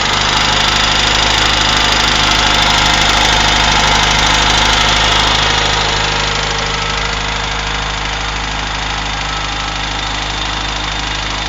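UZAM 1.5-litre Moskvich inline-four running with a steady, rapid knock. It runs a little louder for the first six seconds, then eases down. The knock appeared after a rebuild and its cause is unknown; the timing chain rubbing its tensioner guide has been noticed but is doubted as the source.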